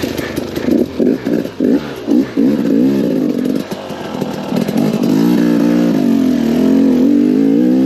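KTM 250 XCW two-stroke enduro engine revving in quick stabs of throttle, then held at steady, wavering high revs under load for the last few seconds.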